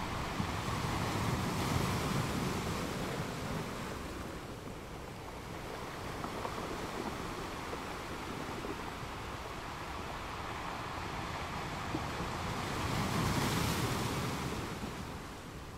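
Gentle ocean waves washing in as a steady hiss, swelling louder twice: once about two seconds in and again near the end.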